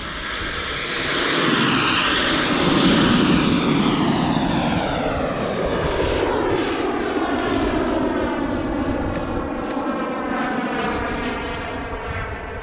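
Radio-controlled model jet flying past: its engine swells to a peak about two to three seconds in, then drops in pitch and slowly fades as it flies away.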